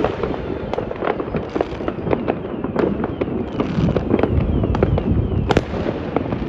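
Fireworks going off all over a city at once: a dense, continuous crackle of many distant bangs and firecracker pops, with one sharper, louder crack about five and a half seconds in.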